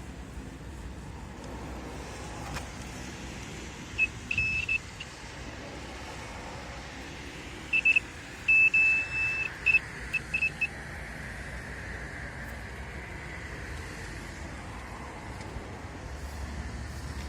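Two clusters of high-pitched electronic beeps, short ones around a longer one, about four seconds in and again from about eight to ten and a half seconds, over a steady background noise.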